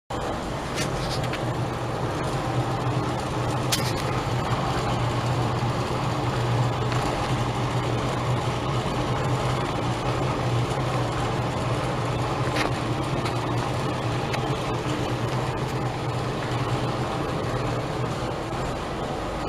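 Exhaust fan running steadily: an even rushing of air over a low motor hum, with a few faint ticks.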